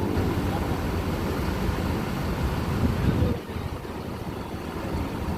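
Bus engine running close by, a low rumble that swells around three seconds in and then drops off sharply.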